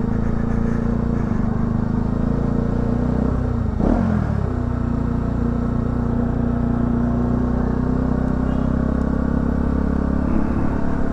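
Bajaj motorcycle's single-cylinder engine running steadily at low road speed, heard from inside the rider's helmet. About four seconds in, the engine note briefly dips and picks up again.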